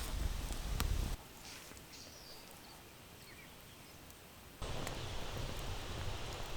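Outdoor woodland ambience: a heavy low rumble with scattered clicks and rustling. About a second in it drops abruptly to a quieter stretch with a couple of faint bird chirps, and it comes back abruptly near the end.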